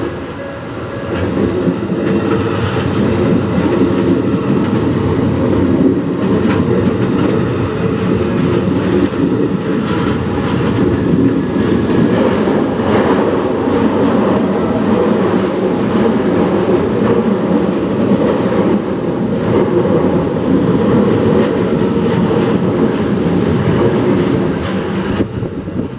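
A Fukutoshin Line electric train passing close by, its wheels clattering over the rails in a loud, steady rumble that fades right at the end.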